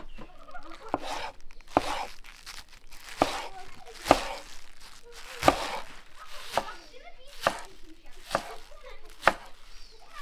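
Large kitchen knife chopping green onions on a wooden cutting board: sharp knocks of the blade striking the board, roughly one a second, with the crunch of the stalks being cut.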